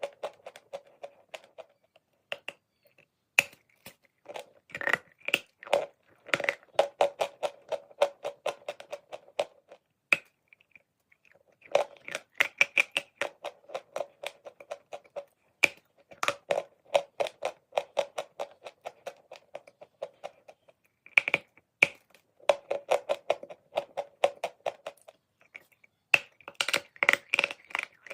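Chalk being bitten and chewed close to the microphone: dense, rapid crunching and crackling in stretches of several seconds, broken by short pauses.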